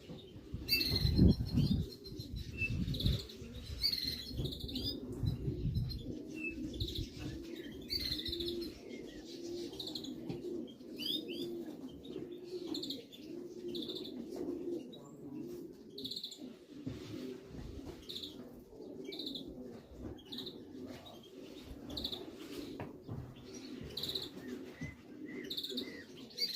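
Racing pigeons cooing steadily at the loft, a continuous pulsing murmur, while a small bird chirps about once a second above it. Low buffeting thumps fill the first few seconds, the loudest moment coming about a second and a half in.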